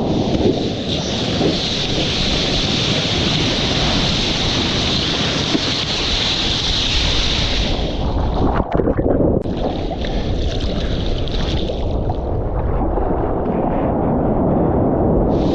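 Wind buffeting the action camera's microphone over rushing, splashing lake surf. The hiss of the water cuts out twice, a little past halfway with a spell of splashing, and again for a few seconds near the end, leaving only the low rumble of the wind.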